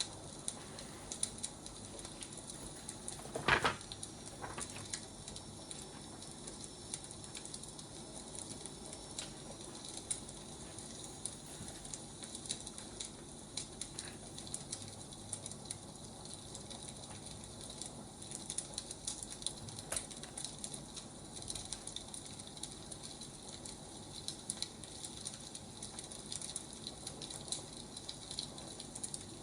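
Wood fire crackling, a steady soft hiss with frequent small snaps and one louder pop about three and a half seconds in.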